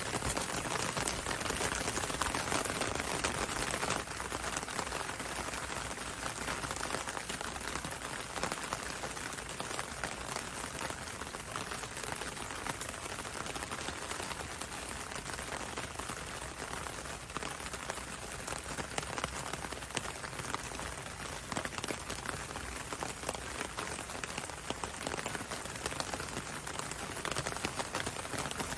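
Steady rain with many fine, irregular drop ticks, the sound of rain falling on a window and on a road.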